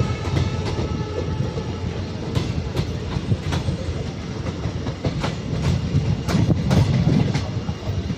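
Passenger train running on the rails: a steady low rumble with irregular clicks and knocks of the wheels over rail joints.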